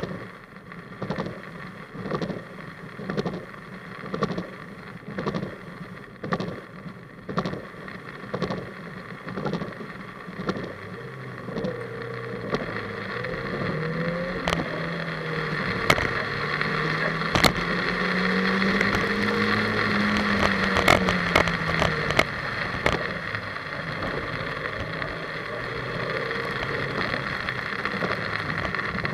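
Heard from inside the car, a Mazda Miata NB1's 1.8-litre four-cylinder engine pulls through the revs, its pitch rising and falling as the car accelerates and slows. There is steady wet-road and wind noise throughout, and a few sharp clicks in the middle. It opens with a regular swishing beat about every two-thirds of a second, which fades out after about ten seconds.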